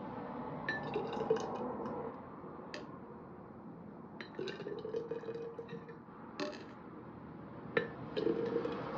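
Glass and dishes clinking together in several short clusters of knocks.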